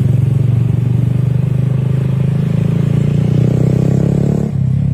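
Motor vehicle engine running steadily under load, with a brief dip and a slight drop in pitch about four and a half seconds in.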